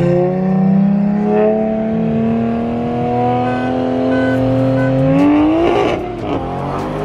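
A C8 Corvette's V8 and a big-turbo Mk5 Toyota Supra's inline-six accelerating hard side by side in a rolling race, heard from inside the Corvette's cabin. The engine note climbs steadily in pitch, then changes abruptly about five seconds in.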